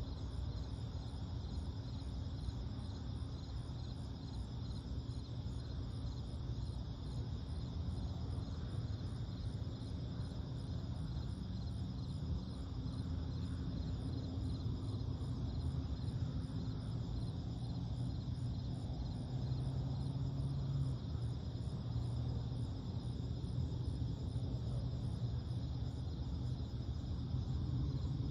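Night insects such as crickets calling steadily, with a high chirp pulsing about twice a second, over a steady low rumble.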